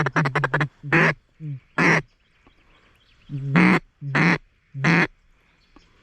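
Mallard-style quacking on a duck call: a fast run of short quacks at about eight a second, ending just under a second in, then five single, longer quacks spaced out over the next few seconds.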